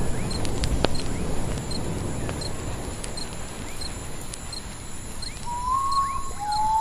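Campfire crackling and snapping, with a common potoo starting its mournful song about five and a half seconds in: a long whistled note, then a slightly lower one, falling step by step. A faint, regular chirping runs underneath.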